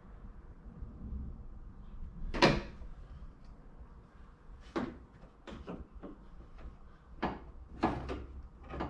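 A series of short knocks and clunks, the loudest about two and a half seconds in, from intake piping and fittings being handled and test-fitted in the engine bay.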